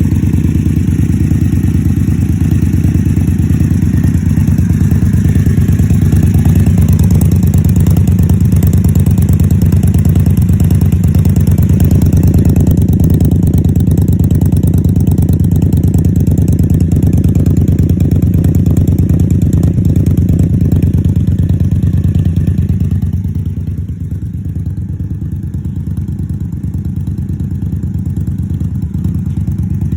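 Indian Scout Sixty's V-twin engine idling through Vance & Hines Grenades slip-on mufflers: a loud, steady, low pulsing with no revving. It gets noticeably quieter about 23 seconds in.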